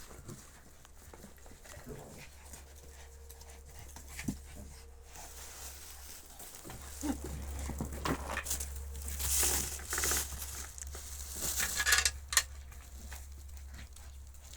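Canines panting and scuffling, with scattered knocks and rustles and louder bursts of noise about ten and twelve seconds in.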